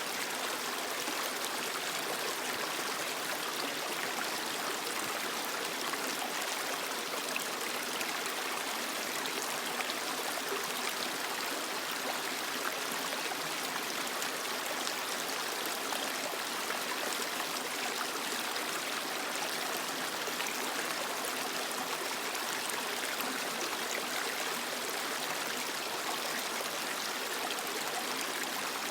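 A small creek flowing and splashing over rocks, a steady, even rush of running water.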